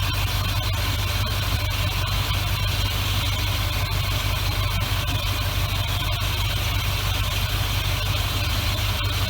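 1973 Ford F-250 pickup's engine running steadily, a constant low hum with no change in speed.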